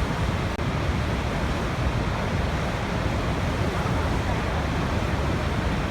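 Waterfall: falling water making a steady, unbroken rush of noise.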